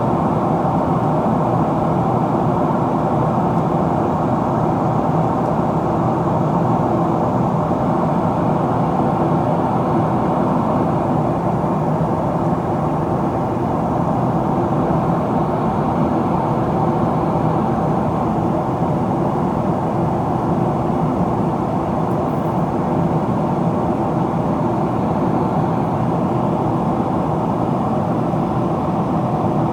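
Steady cabin noise inside a Boeing 777-300ER in descent: even rushing airflow mixed with the hum of its GE90 engines.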